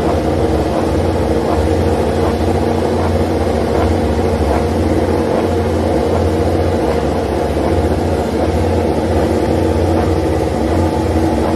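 An engine running steadily at constant speed, with a deep hum under it and no revving.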